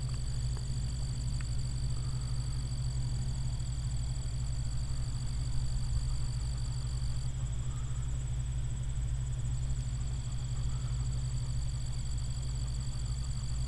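Massey Ferguson combine harvester running steadily, a continuous low drone. Thin, steady high-pitched tones sit above it and drop out for a couple of seconds midway.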